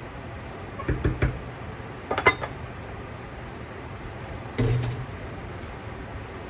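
Kitchen clatter of dishes and utensils being handled: a few sharp knocks and clinks, then a short rattle of about half a second.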